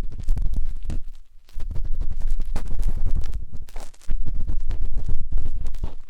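A matchstick scraping and rubbing inside the ear of a 3Dio binaural microphone, in bursts of close, crackly scratching over a heavy low rumble. It breaks off briefly about a second in and again near four seconds.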